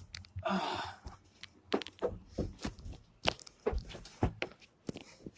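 Irregular knocks and thumps of a person crawling on knees and hands into a carpeted pickup truck bed under a topper, with a short rustling scrape about half a second in.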